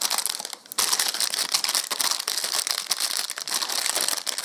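Packaging bags holding Pez dispensers crinkling and rustling as they are handled, with a brief pause just under a second in.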